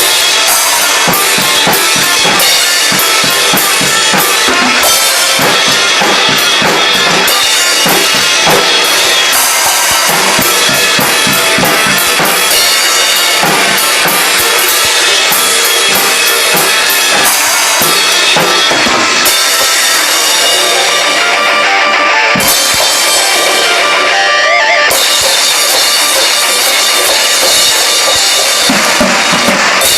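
Drum kit played along with a song: bass drum, snare and cymbals in a steady rock beat over the recorded music, with a brief drop in the cymbals a little past the middle.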